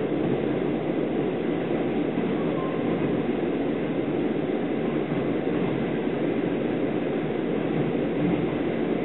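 Steady rumble of a type 25Z passenger coach running at speed on the rails, heard from inside the coach.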